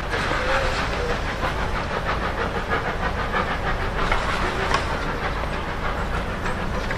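A train running close by, with a steady, fast rhythmic clatter.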